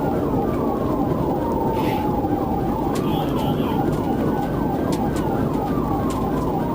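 Police sirens during a pursuit: one wails slowly, falling and rising over about five seconds, while a second tone yelps in short falling sweeps about four times a second. Steady road and engine noise runs underneath.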